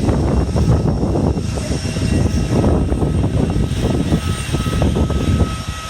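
Strong gusty wind buffeting the microphone in uneven swells, over the steady high whine of jet aircraft engines at the airport.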